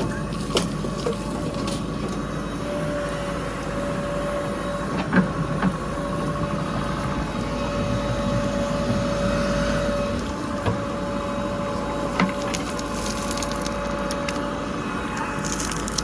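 Heavy diesel machinery running steadily with a constant whine, and a few sharp knocks or clanks along the way.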